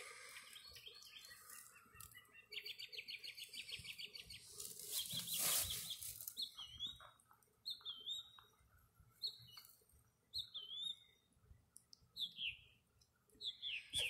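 Small songbird calling: a fast, even trill a few seconds in, then a run of short chirps that each drop quickly in pitch, about one a second. A brief burst of rustling noise, the loudest sound, comes between the trill and the chirps.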